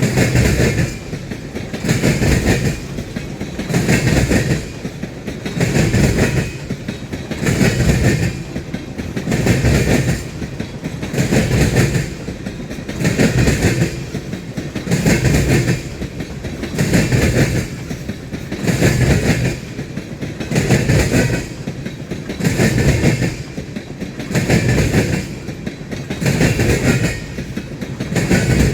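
Freight train cars rolling past, their wheels clacking over the rails in a loud, even beat that comes round about every one and three-quarter seconds as each car goes by.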